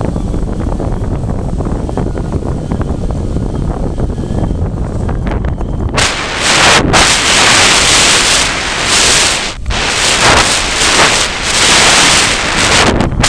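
Strong, gusty wind buffeting the microphone: a low rumbling at first, then about six seconds in a much louder, harsh rushing blast that comes and goes in gusts with brief lulls.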